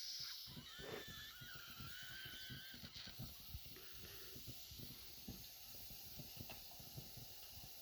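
Model steam engine's boiler whistle tailing off in the first half-second, leaving a faint steam hiss. A faint wavering whistle tone comes for a couple of seconds near the start, with scattered low knocks throughout.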